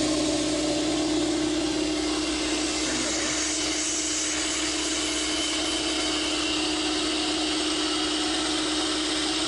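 Husky Pro air compressor, just switched on, running steadily with an even drone and one steady tone.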